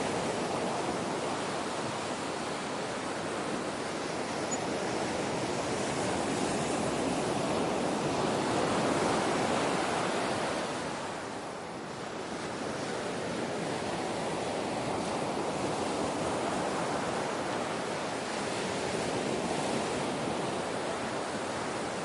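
Ocean surf: continuous wash of waves, swelling to a crest about nine seconds in, easing off briefly a few seconds later, then building again.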